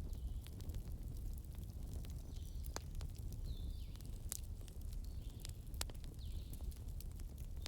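Wood fire crackling: irregular sharp pops and snaps over a steady low rumble. Several short high whistles that fall in pitch come and go.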